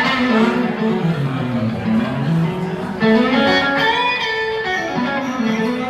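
Live electric guitar playing a slow blues lead, with held notes bent up and down in pitch.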